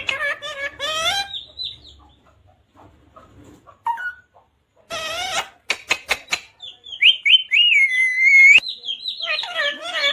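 Pet parrot calling in bursts of warbling, speech-like squawks, with a few sharp clicks about six seconds in and a run of short chirps that runs into a longer held call.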